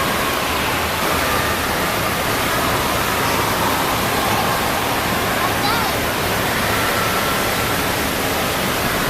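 Steady rush of falling and splashing water, with distant voices and a few short shouts over it, typical of water park ambience.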